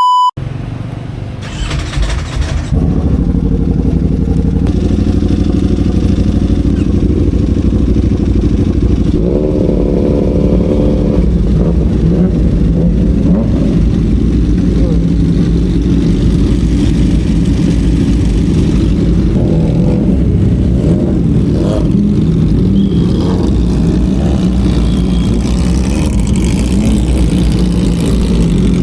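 Motorcycle engine with an aftermarket racing exhaust, running loud and steady. It grows louder about two seconds in and briefly rises in pitch around ten seconds in.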